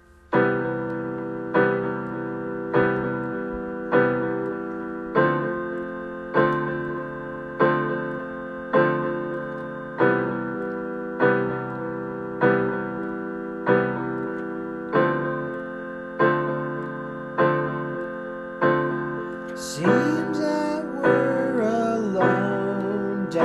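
Music: a keyboard repeating the same chord about every 1.2 seconds, each strike fading before the next, with a second melodic line coming in near the end.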